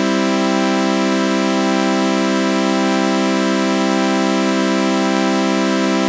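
A synthesizer chord of sawtooth waves run through a flanger, held as one steady, unbroken drone with a faint slow sweep in its upper tones.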